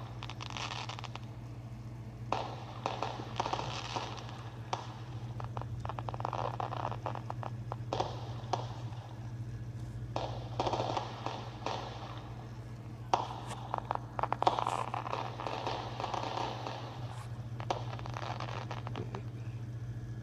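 Fireworks crackling in repeated clusters of rapid sharp pops, over a steady low hum.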